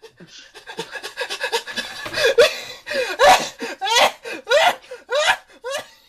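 A person's voice in a run of loud, repeated vocal bursts, each sliding up and down in pitch. They come about every half second, building from about two seconds in and loudest around the middle.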